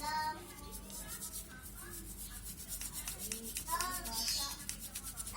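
A person's voice, fainter than the surrounding speech, with pitch rising and falling.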